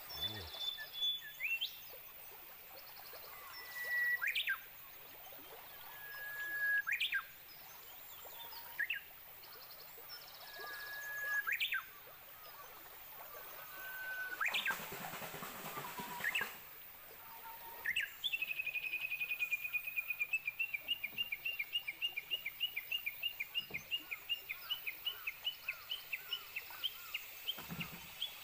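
Wild birds calling. A held whistled note ending in a sharp sweep repeats every two to three seconds, then about two-thirds of the way in a fast run of repeated high notes, about four a second, carries on to the end. About halfway there is a brief rush of noise.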